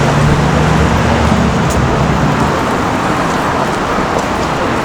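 City street traffic: a motor vehicle's engine hums close by, fading after about two and a half seconds, over steady road noise.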